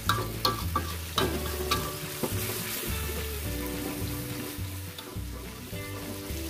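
Chili paste sizzling in a wok with a little water just added, stirred with a metal spatula that clicks and scrapes against the pan, most often in the first couple of seconds.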